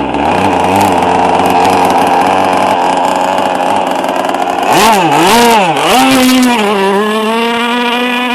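Radio-controlled G4 hydroplane boat's motor running at speed, a loud steady pitched buzz. About halfway through its pitch dips and rises twice as the throttle is worked, then it holds steady and high.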